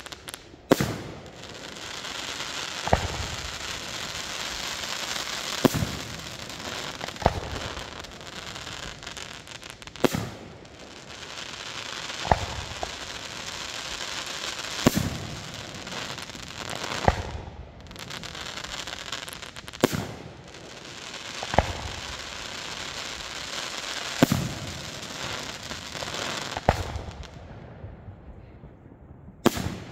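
Aerial firework shells bursting one after another, a sharp bang about every two to three seconds, a dozen or so in all. Between the bangs the glitter stars keep up a steady crackling that thins out near the end.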